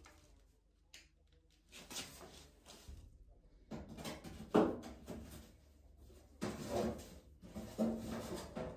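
Several separate bursts of knocking and rattling from objects being handled, the loudest about halfway through.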